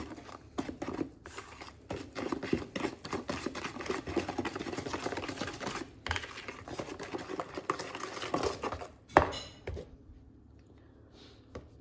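Kitchen handling sounds: dishes and utensils clattering and scraping for most of the stretch, with one sharp knock about nine seconds in, after which it goes much quieter.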